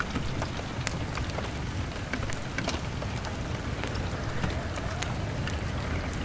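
Rain falling on a window mixed with a crackling wood fire: a steady hiss over a low rumble, with many sharp little ticks and pops scattered through it.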